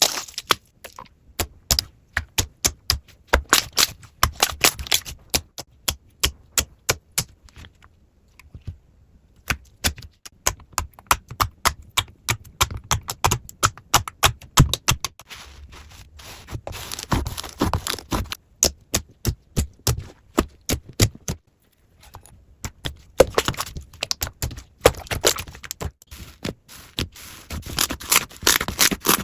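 Slime being squeezed and worked by hand, giving quick runs of sharp crackling clicks and pops, with two short pauses.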